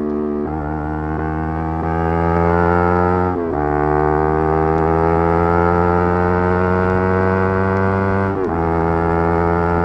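Yamaha R3's parallel-twin engine pulling hard at high rpm, its pitch climbing steadily through each gear. It upshifts about three and a half seconds in and again near the end, the pitch dropping sharply each time before climbing again.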